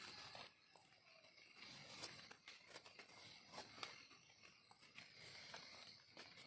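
Faint rustling and crackling of dry leaf litter, scattered light clicks, with a faint high chirp repeating about once a second.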